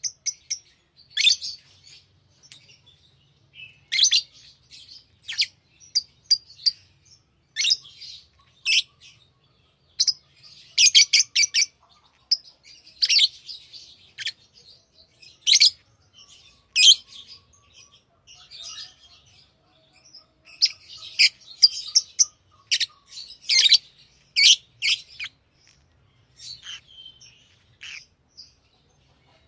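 Pet lovebirds chirping: many short, sharp, high-pitched calls in quick, irregular bursts, with brief pauses between them.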